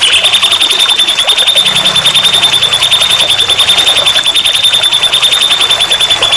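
Songbird tutor (masteran) song: one high note repeated in a rapid even trill of about ten notes a second, held for about six seconds and cutting off suddenly near the end.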